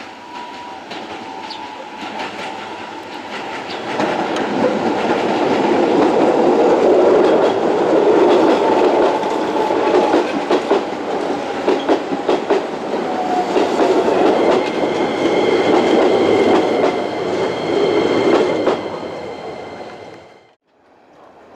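Electric commuter train running through the station, its wheels clattering over the rail joints; it builds up about four seconds in and stays loud. A thin high whine joins later, and the sound cuts off abruptly near the end.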